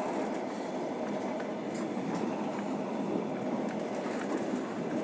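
Passenger train running along the track, heard from inside the carriage: a steady rumble of wheels on rails with faint, irregular clicks.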